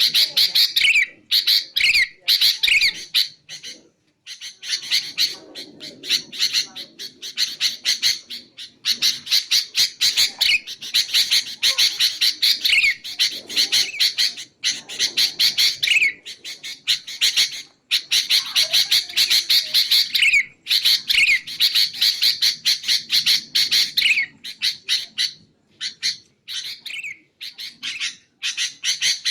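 Sooty-headed bulbul (kutilang) calling: fast runs of short, sharp chattering notes mixed with short downward-sliding whistles, broken by a few brief pauses.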